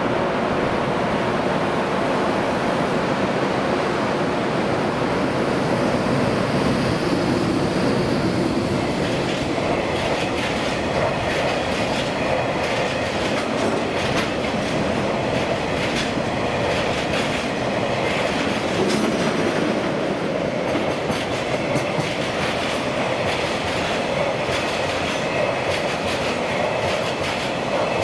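Train running through a station, its wheels clacking over rail joints and points; the clacks come thick and fast from about ten seconds in over a steady rumble.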